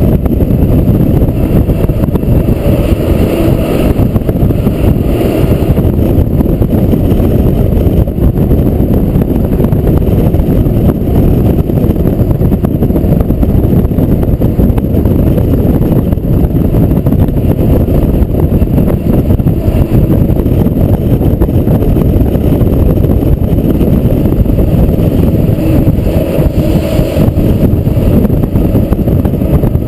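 Fire truck under way: loud, steady engine and road noise, mostly low-pitched, picked up by a GoPro mounted on the truck. No siren.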